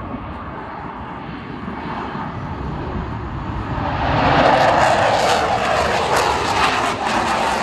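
Twin Snecma M88 turbofans of a Dassault Rafale C jet fighter, a steady roar that grows louder and swells sharply about four seconds in into a loud, crackling jet rumble.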